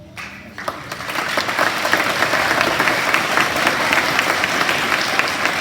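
An audience applauding, the clapping building up over the first second and then holding steady.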